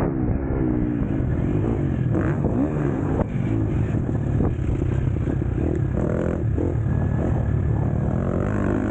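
KTM SX-F four-stroke motocross bike engine running hard at changing revs, with a few sharp knocks and clatter over it.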